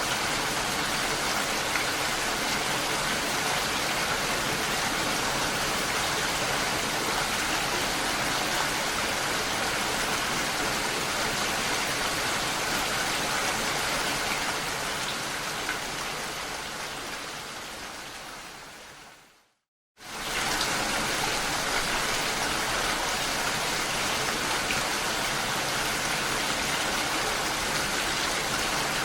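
Steady rain falling, an even hiss. About two-thirds of the way in it fades away to a brief moment of silence, then cuts back in suddenly at full strength, like a loop point in the recording.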